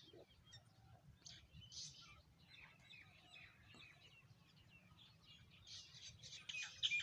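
Sparrows chirping, many short overlapping chirps that grow busier and louder near the end.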